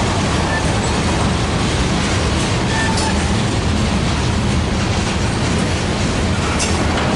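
Train rolling past at a steady pace, its cars and wheels on the rails making a continuous low rumble. There are a couple of sharp clicks and brief faint wheel squeals.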